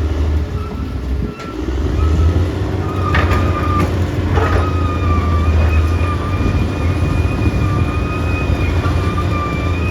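Caterpillar D6R XL bulldozer's diesel engine working under load with a deep steady drone that dips briefly about a second and a half in. A few metallic clanks come around three to four seconds in, and a thin steady whine runs from then on.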